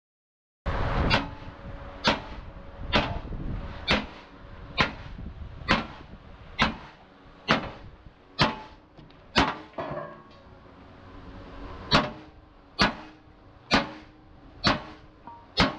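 Hammer striking steel in truck chassis repair: sharp, slightly ringing blows at a steady pace of about one a second, with a short pause about two-thirds of the way through. The sound cuts in abruptly just after the start.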